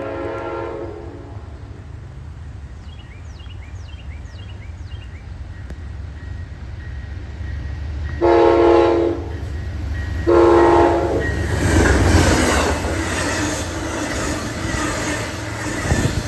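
Train approaching and passing: the tail of a horn blast in the first second, two short horn blasts near the middle, then the growing rush and rumble of the train going by, over a steady low engine rumble.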